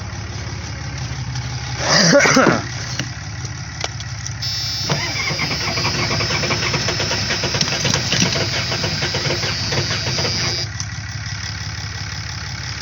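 1986 Ford F-250's 6.9 IDI diesel running rough after seven years sitting and a flood, with a short loud burst about two seconds in and a louder clattering stretch from about four and a half seconds to ten and a half seconds.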